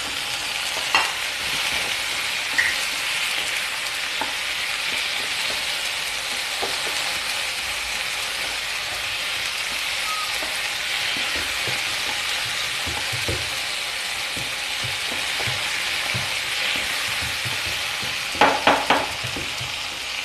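Chopped tomatoes and onions sizzling in hot oil in a non-stick kadai, stirred with a wooden spatula that scrapes and taps the pan now and then. A few short, sharp knocks come near the end.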